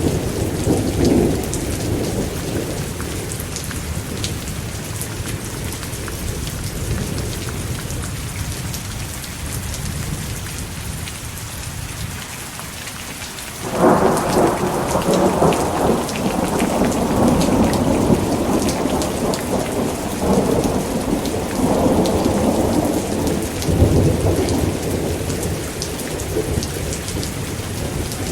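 Steady heavy rain with thunder: a rumble near the start that dies away, then about halfway through a sudden loud thunderclap that rolls on in long rumbles with further swells.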